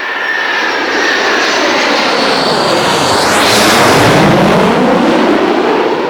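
Boeing 727 jetliner passing by with its three Pratt & Whitney turbofans running. The engine noise builds to its loudest about four seconds in, and the whine drops in pitch as the aircraft goes past.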